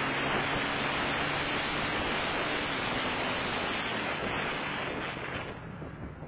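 Steady rushing wind and road noise on a moving motorcycle's camera, with a faint low engine hum underneath. It fades about five and a half seconds in.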